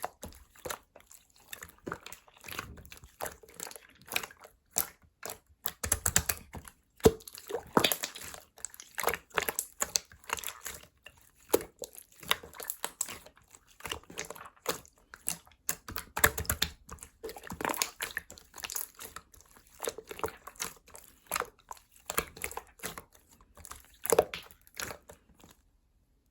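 Yellow slime being squeezed, poked and stretched by hand. It gives an irregular run of small sticky clicks, pops and squishes.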